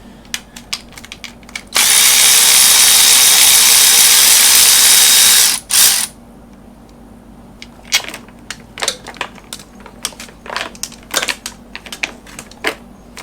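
Power driver running a 13 mm socket on an engine bolt: one steady spin of about three and a half seconds with a constant whine, a short second burst just after it, then light metallic clicks and clanks of tools and parts being handled.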